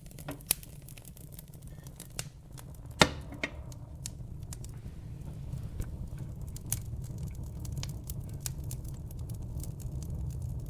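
Wood fire burning in a fireplace: a low steady rumble of flames with frequent crackles and snaps, the sharpest pops about half a second in and about three seconds in.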